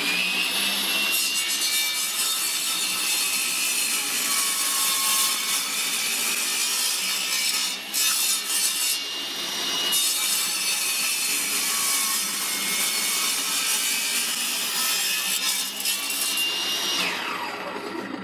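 Table saw running with a re-sharpened 40-tooth carbide blade cutting through hardwood. The motor's whine sags twice as the blade takes the load, and near the end the saw is switched off and winds down. The blade is sharp and cuts easily, almost like butter.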